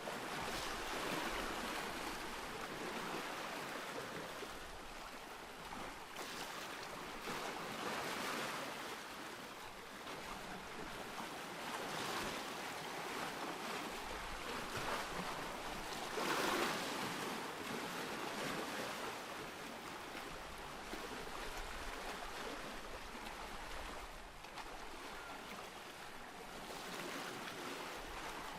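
Ocean surf: waves breaking and washing in, the wash swelling and ebbing every few seconds, with the strongest surge about halfway through.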